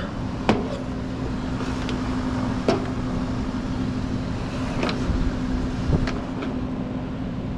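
A vehicle engine running steadily with a constant hum, broken by four or five sharp knocks a second or two apart.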